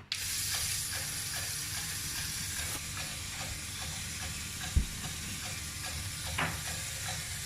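Small electric motors of a home-built robot helicopter model spinning its rotors: a steady whirring hiss that starts abruptly, with faint regular ticking. A single sharp knock about five seconds in.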